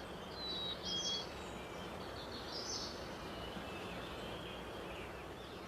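Woodland birds chirping: a few short, high calls near the start and again about three seconds in, over a steady outdoor hiss.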